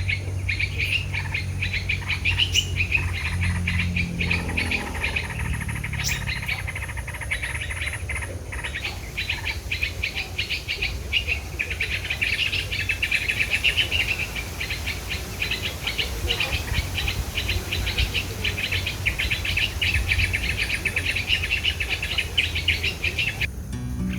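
Small birds chirping rapidly and almost without pause, with a low steady hum underneath.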